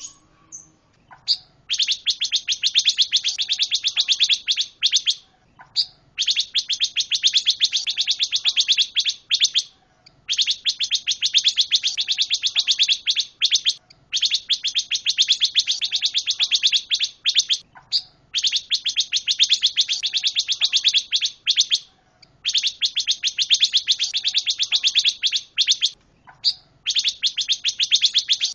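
A songbird kept as a 'pancawarna' cage bird sings in long, very rapid trills of repeated high notes. About seven bursts each last three seconds or so, separated by short pauses.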